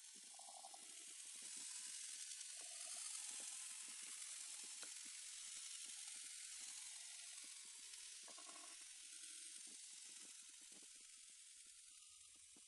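Chicken pieces in masala sizzling faintly in a nonstick frying pan as a spatula stirs them, with small scrapes and clicks of the spatula. The sizzle swells a second or two in and fades toward the end.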